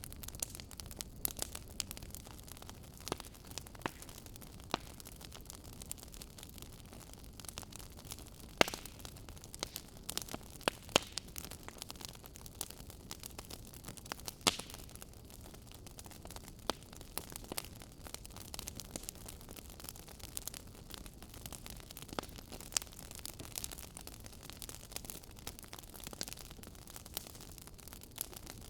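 Campfire crackling: irregular sharp pops and snaps of burning wood over a steady soft hiss, with a handful of louder snaps in the middle.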